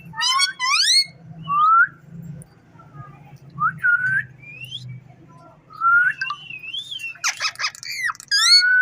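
Ringneck parrot whistling a series of short rising whistles, with a burst of harsher, rapid calls about seven seconds in.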